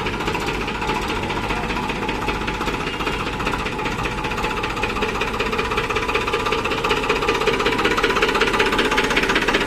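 Farmtrac 45 Powermaxx tractor's diesel engine running steadily with a fast, even clatter, getting slightly louder in the last few seconds.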